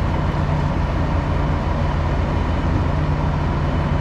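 Ready-mix concrete truck's diesel engine running with a steady low drone.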